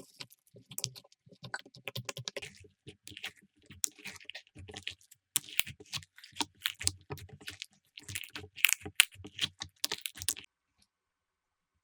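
Slime being pressed and squished by hand, giving a dense run of small clicks and crackles much like typing, which stops about ten seconds in.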